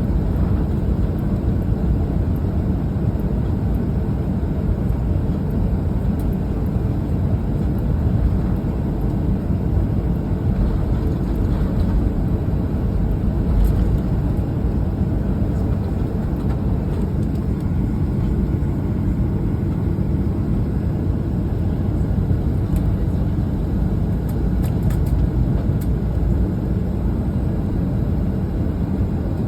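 Steady low cabin roar inside a Boeing 737-900ER under way, the sound of its CFM56-7B engines and the airflow heard from a forward seat, with a few faint rattles or clicks.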